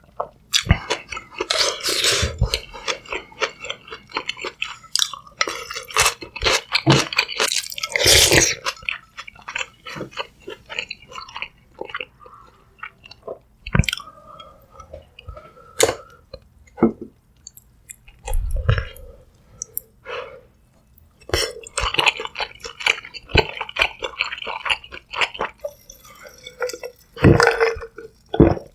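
Close-miked chewing and eating of sundae gukbap, blood sausage and rice in hot soup: wet, irregular chewing and mouth sounds with small clicks, and a few louder bursts about two and eight seconds in.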